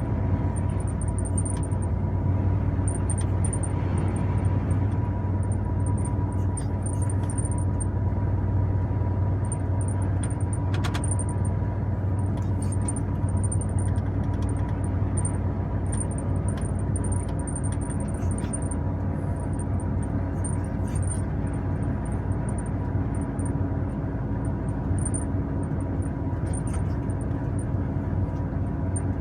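Truck running steadily: a constant low engine and road drone that holds the same level throughout, with faint high-pitched chirps coming and going.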